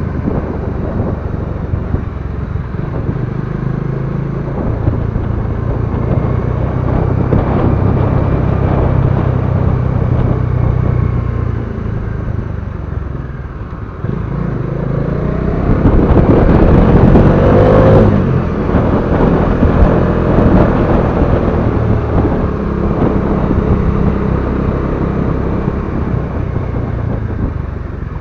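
Motorcycle engine running steadily, with a louder stretch a little over halfway through where an engine note rises in pitch.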